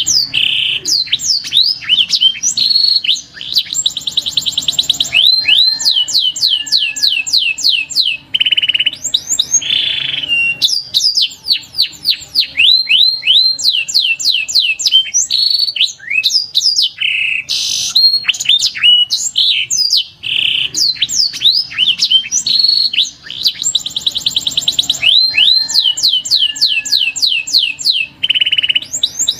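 Canary singing a long, continuous song of fast rolling trills and quick rising and falling sweeps. The same passage of song comes round again about every nine to ten seconds, as a looped recording does.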